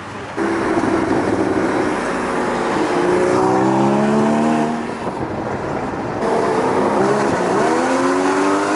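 Car engines running loud and accelerating hard, the engine note climbing in pitch twice, with a sudden jump in sound about half a second in.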